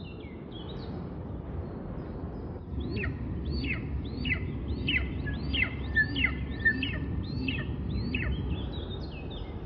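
A bird calling repeatedly, a regular series of about a dozen high calls, roughly two a second, each sliding steeply down in pitch, over a steady low rumble.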